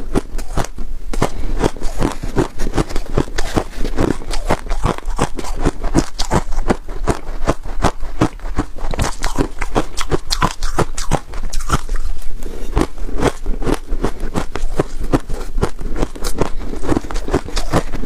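Freezer frost being bitten and chewed: a dense, unbroken run of crisp crunches.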